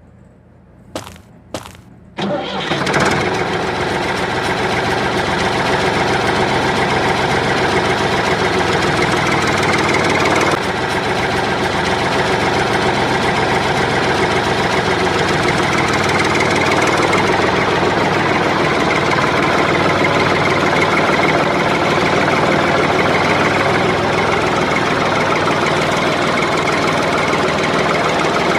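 A few clicks, then about two seconds in a motor starts up and runs steadily to the end.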